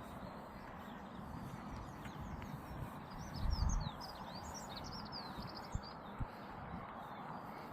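Small songbirds chirping and twittering in quick high notes, busiest in the middle, over a steady low outdoor rumble. A brief louder low rumble comes about three and a half seconds in.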